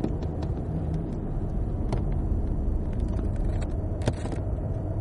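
Cadillac CTS-V's V8 engine and road noise heard from inside the cabin as the car slows hard into a corner, with a few sharp clicks.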